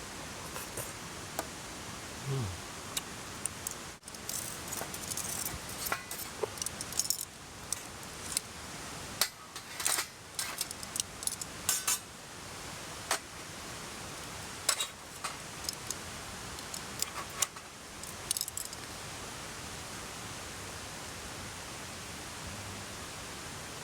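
Light clinks and taps of metal utensils against tableware, a scattered run of them for about eighteen seconds, over the steady rush of a mountain stream.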